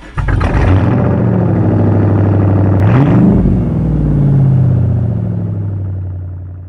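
A car engine running steadily, starting suddenly, revved up and back down once about three seconds in, then fading out.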